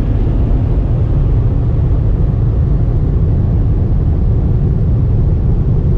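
Steady, loud low rumble of a vehicle, without clear changes.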